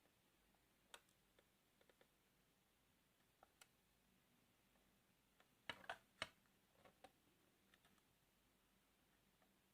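Near silence, broken by a few faint, short clicks and taps, with a small cluster of louder ones about six seconds in, as of toy model vehicles being handled and set down.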